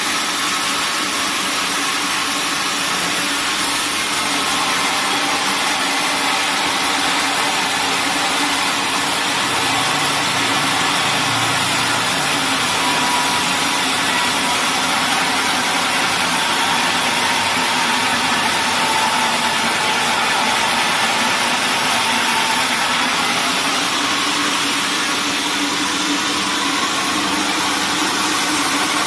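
Sawmill machinery running steadily: a constant engine or motor drone under a dense, even hiss.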